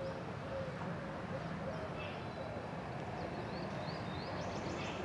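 Birds chirping now and then, with short high calls about two seconds in and again near the end, over a steady outdoor hiss.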